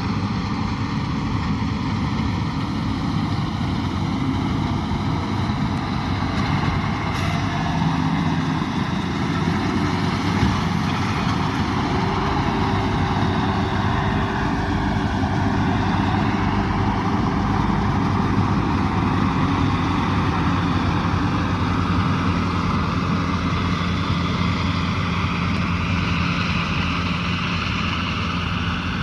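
Rice combine harvester running steadily under load. Its engine note dips briefly and recovers about halfway through.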